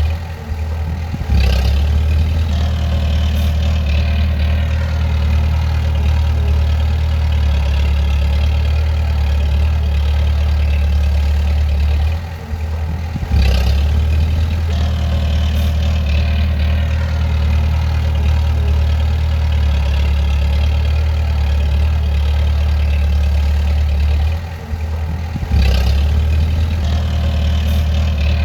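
Bulldozer's diesel engine running steadily under load. About every twelve seconds it drops for a second and picks up again with a short clank.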